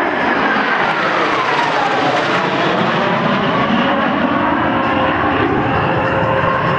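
F-104 Starfighter jets flying past in formation, a loud jet engine rush whose whine falls steadily in pitch over the first couple of seconds as they pass, then settles.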